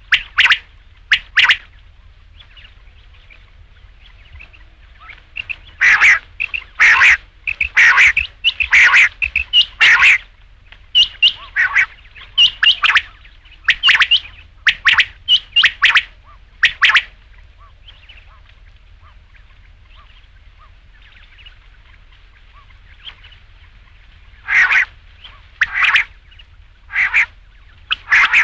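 Rain quail calling in quick series of short, sharp, high calls: a couple at the start, a dense run for about ten seconds, a lull with only faint calls, then four more loud calls near the end. A faint low hum runs underneath.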